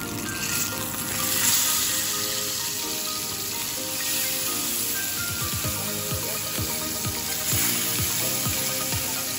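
Salmon fillets sizzling in hot oil in a frying pan as they are turned with metal tongs, a steady hiss that swells briefly about a second and a half in.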